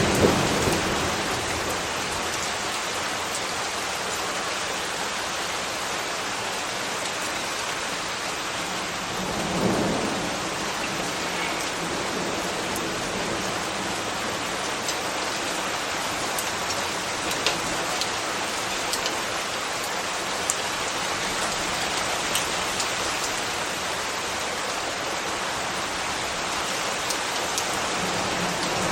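Steady rain falling, an even hiss with occasional sharp drip ticks on a surface. A brief low swell rises and fades about ten seconds in.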